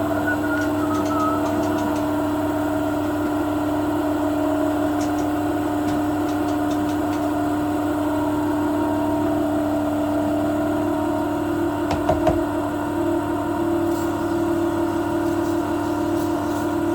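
A machine's motor running steadily with a constant hum, with a few knocks about twelve seconds in.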